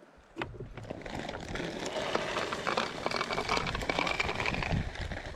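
Loose dry feed being poured into a feeder: a dense pattering rattle of many small hard grains, starting about half a second in.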